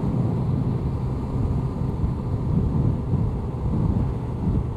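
Honda CBR1100XX Blackbird's inline-four engine running steadily while riding, mixed with wind rushing over the microphone.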